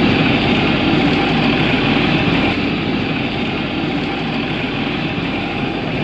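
Sailboat's inboard diesel engine running steadily as the boat motors along.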